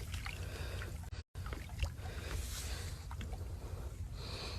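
Boat on the water: a low steady rumble with faint water trickling and small scattered knocks. The sound drops out completely for a moment about a second in.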